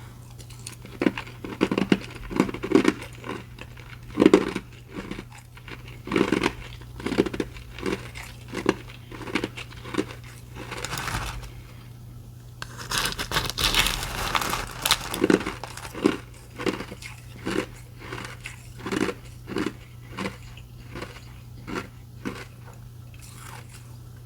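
Close-miked chewing of mouthfuls of ice, crunch after crunch about once or twice a second, with a busier, noisier stretch a little past the middle.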